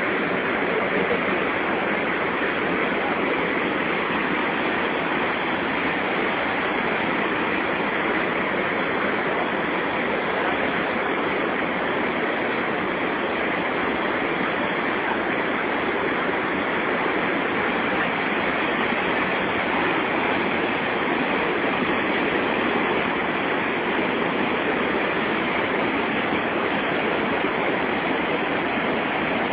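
Steady rushing of water from the Santo Antônio waterfall on the Madeira River, an even roar that does not change.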